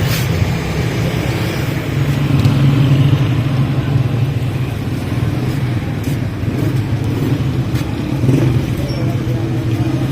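Road vehicle engine running with a steady low hum.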